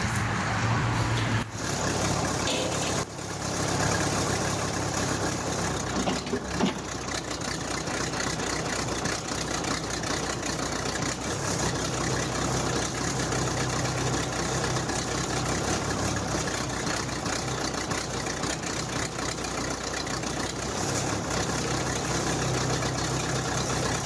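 Case backhoe engine running steadily at idle.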